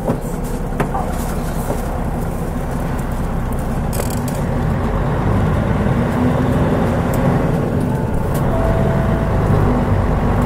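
The turbocharged 6M70 straight-six diesel of a Mitsubishi Fuso Aerostar city bus running under way, heard from inside the cabin. It grows louder through the second half as the bus pulls, with a brief hiss about four seconds in.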